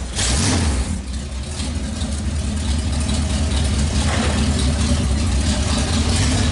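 Oldsmobile bomber race car engine running loudly, just fired up, with a steady low drone and a little uneven revving.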